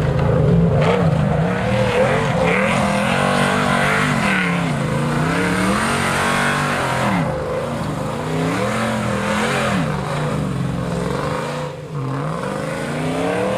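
Nissan vehicle's exhaust note as the engine is revved up and down over and over, the pitch rising and falling every second or two, with a brief dip just before the end.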